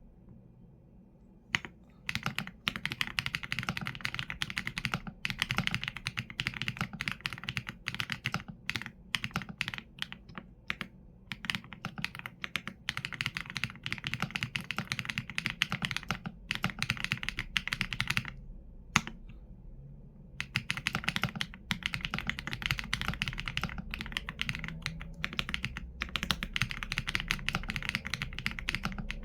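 Typing on a mechanical keyboard with Leobog Graywood V4 linear switches and PBT keycaps: fast runs of keystrokes with brief pauses between bursts, starting about two seconds in.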